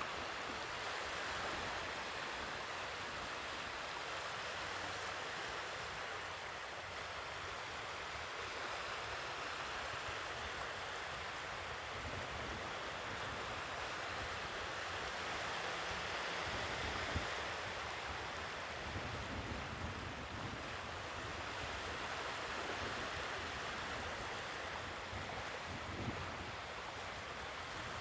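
Sea waves washing on the shore, a steady wash of surf that swells and eases slowly.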